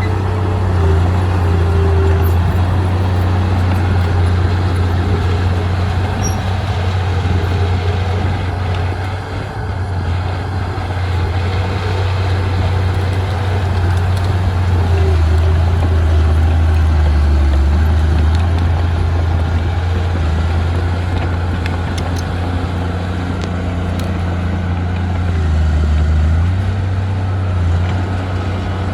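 Komatsu D20P bulldozer's diesel engine running under load, a steady low drone whose pitch and level rise and fall a few times as the machine works.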